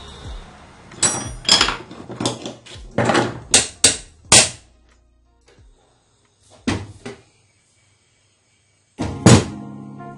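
A quick run of knocks and clicks from sewing machine parts being handled while the machine is taken apart. A few quiet seconds follow, then one loud knock near the end.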